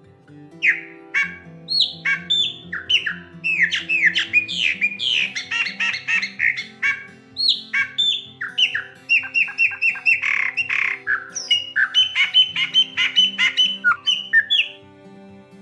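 Chopi blackbird (graúna) singing a long, varied song of quick whistled and harsh squawking notes, with fast repeated strokes about halfway through, stopping shortly before the end. Soft background music with low held notes plays under it.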